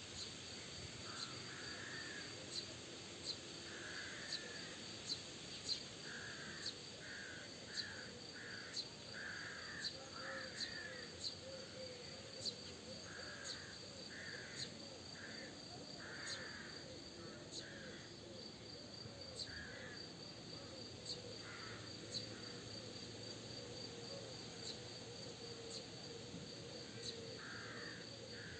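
Birds giving short, harsh calls over and over, in clusters, over a steady high pulsing chirp. Lower repeated notes join from about a third of the way in.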